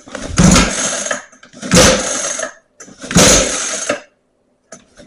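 Pull cord of a 49cc mini ATV's recoil starter yanked four times, about a second each, the engine turning over with each pull but not catching. The repaired recoil rewinds the cord after every pull.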